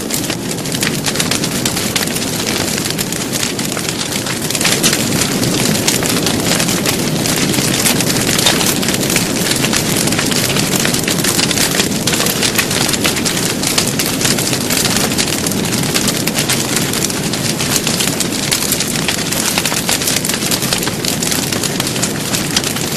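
Loud, steady crackling and roaring of a big fire, dense with fine snaps, fading in just before and then holding level.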